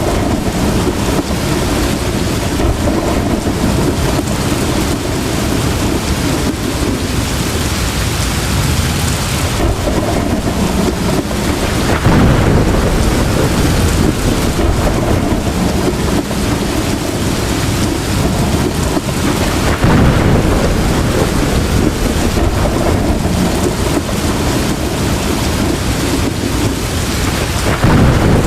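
Heavy rain falling steadily, with thunder rumbling and swelling louder a few times.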